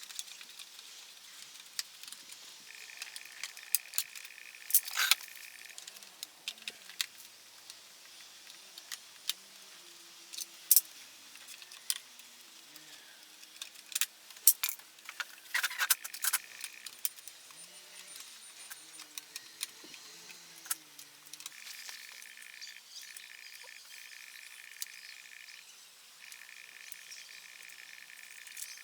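Sharp metallic clicks and clinks of hand tools and metal parts, scattered irregularly as a motorcycle engine is taken apart. A steady high-pitched chirring runs behind them for a few seconds near the start and again from about two-thirds of the way through, with short breaks.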